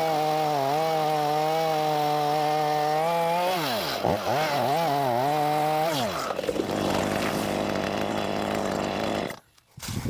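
Small two-stroke Stihl chainsaw running at high revs and cutting into a tree trunk, its pitch sagging slightly under load. About three and a half seconds in the revs drop and are blipped up and down, and from about six seconds the engine note gives way to a rough rushing, crashing noise as the tree comes down, which stops abruptly near the end.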